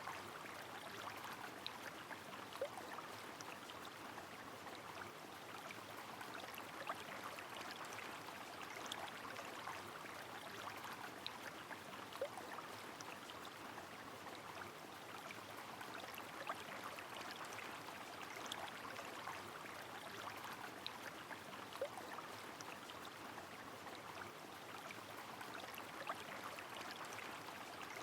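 Faint rainy-river ambience: a steady, even rush of flowing water with scattered small, sharp drip-like ticks of rain falling through it.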